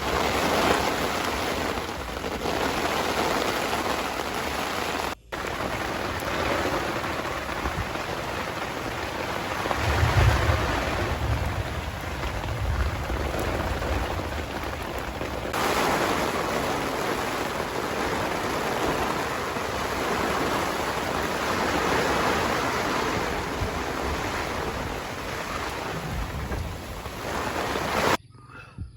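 Heavy rain falling steadily in a thunderstorm, with thunder rumbling low about ten seconds in.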